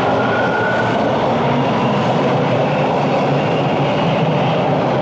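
Toronto subway train running through the station: a loud, steady rumble of wheels on the rails, with a faint whine that rises slightly in the first second.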